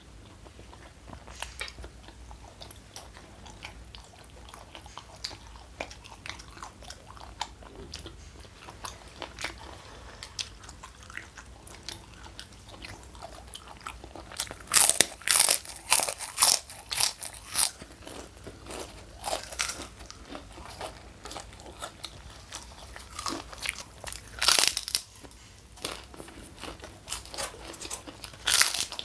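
Close-miked eating: quiet chewing at first, then from about halfway in loud, crisp, irregular crunches of crunchy food, such as fried kerupuk crackers, being bitten and chewed.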